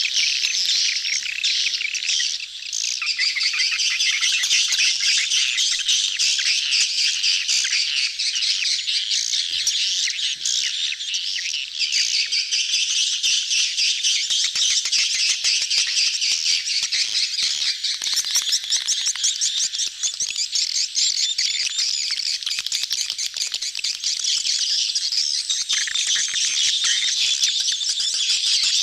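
A dense crowd of swiftlets chirping and twittering without a break, many fast overlapping calls at once. This is a swiftlet lure sound of a colony in courtship.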